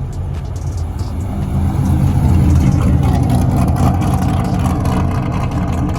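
A car's engine and exhaust rumbling deep and loud. It swells about two seconds in and stays loud.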